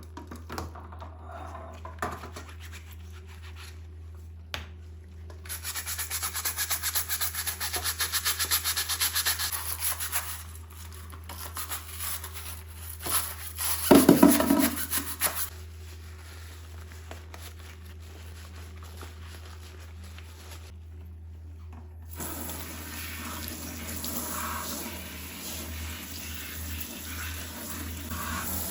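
A brush scrubbing a surface in quick, rhythmic strokes, with a short loud knock or splash about halfway through and more rubbing noise near the end.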